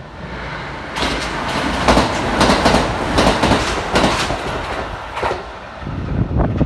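Kintetsu 1000 series electric train running through the station at speed without stopping. The rush of the train builds about a second in, with rapid clickety-clack of the wheels over the rail joints. It dies away after about five seconds.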